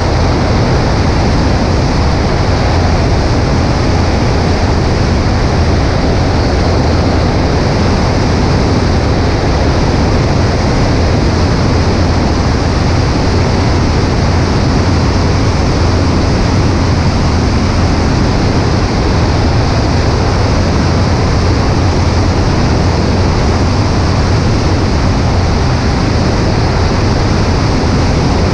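Steady in-flight noise of a Cessna 140A light airplane: a low engine and propeller drone under loud rushing wind on a wing-mounted camera.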